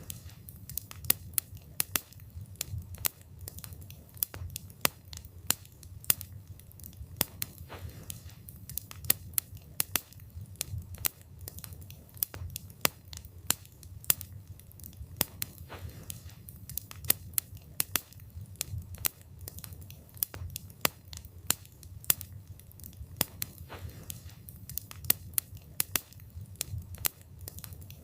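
Wood fire crackling: many irregular sharp snaps and pops of burning wood, several a second, over a low steady rumble of the flames.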